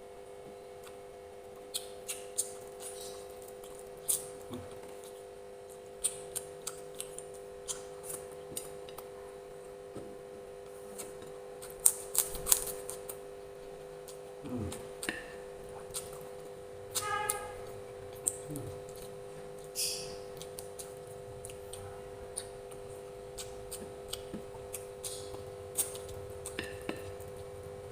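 Eating sounds: scattered sharp clicks and clinks of cutlery against a plate, a busier cluster about twelve seconds in, over a steady low hum.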